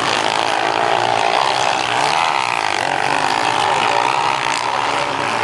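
Several motocross bikes' engines running and revving on the track, their pitches rising and falling and overlapping.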